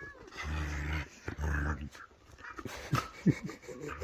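A dog-like canine play-growling: two low growls of about half a second each, then a few sharp clicks and short yips about three seconds in.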